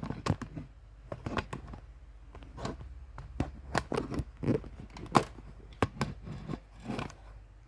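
Crisp fried chicken and chicken skin crunching: a string of irregular sharp crunches and clicks, some with a dull thud underneath.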